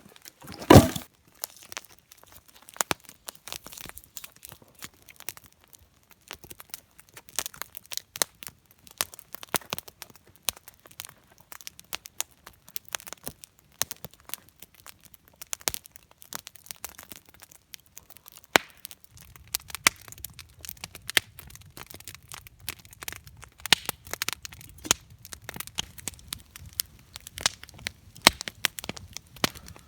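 Wood campfire crackling and popping in irregular sharp snaps, with one loud thump about a second in. A low rumble joins under the crackle from a little past the middle.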